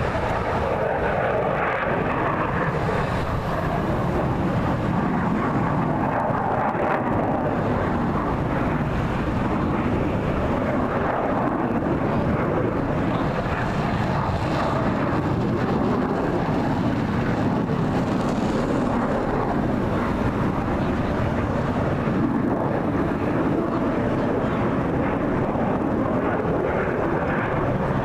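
Airplane engine noise at an air show, a loud steady sound that holds about level throughout.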